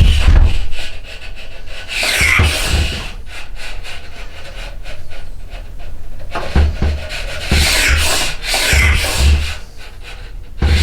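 A hand tool rasping and scraping yew bow wood in uneven strokes a second or more apart, with dull knocks of the work shifting under some strokes.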